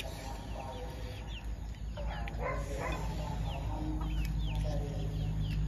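Birds calling: many short high chirps, with a few lower, fuller calls near the start and again about two seconds in, over a steady low hum.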